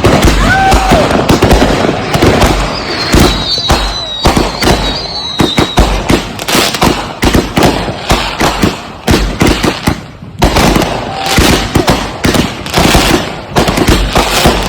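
Consumer multi-shot aerial firework cake firing a rapid barrage, shot after shot launching and bursting with crackle, several a second. A thin wavering whistle rides over the barrage about three to six seconds in, and the firing thins briefly near ten seconds before picking up again.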